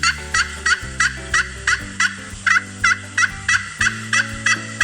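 Turkey gobbling: short, evenly repeated gobble notes, about three a second, over a backing tune.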